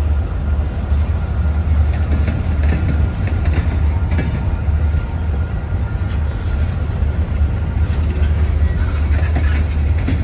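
CSX freight train rolling past with a steady, heavy low rumble.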